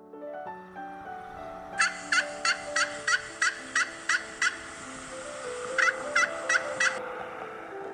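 A rapid series of short, evenly spaced animal calls, about three a second, in two runs with a pause between, over soft background music.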